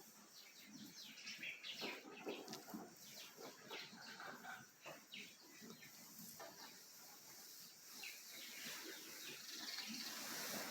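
Holstein cows eating hay in their stalls: faint, irregular munching and rustling, with high bird-like chirps scattered through.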